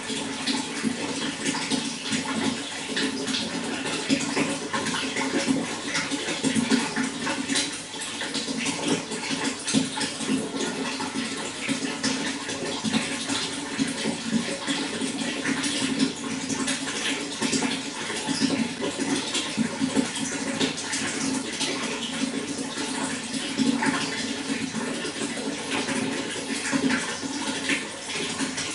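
Running water flowing steadily, with constant small splashes and gurgles.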